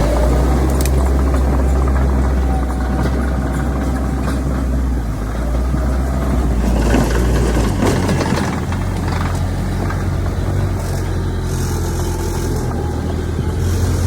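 Heavy diesel engine of earthmoving machinery running steadily, its low engine note shifting pitch about eight seconds in, with a few short knocks.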